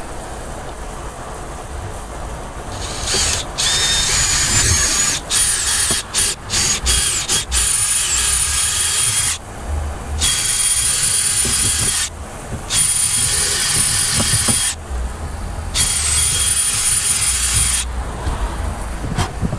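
Power drill run in a few quick trigger pulls, then in several runs of about two seconds each, its motor whining high.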